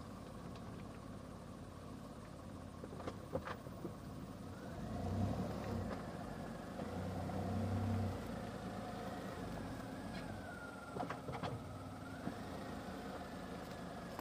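Small Suzuki hatchback's engine running, revving up about five seconds in and again a couple of seconds later before easing back. A few light clicks or taps come near the three-second mark and again around eleven seconds.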